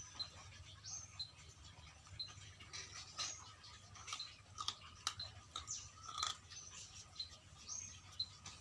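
Dogs chewing raw quail, bones crunching in irregular bursts of sharp cracks and clicks. A short high chirp repeats about once a second behind them.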